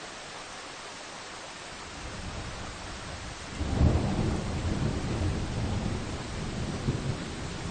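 Steady rain hissing on a forest. About two seconds in a deep rumble builds, then swells sharply a little after halfway and keeps rolling and fluctuating.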